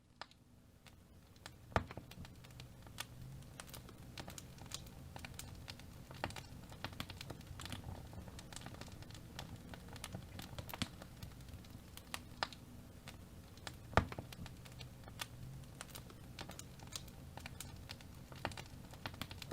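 Wood fire crackling in a fireplace: a steady stream of small sharp snaps and pops over a low rumble of the flames, with two louder pops, one about two seconds in and one about fourteen seconds in.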